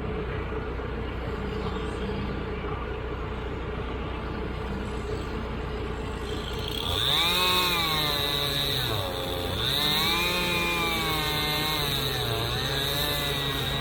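Tractor engine running steadily, then from about seven seconds in revving up and down in long swells with a steady high whine, typical of the engine working the hydraulics.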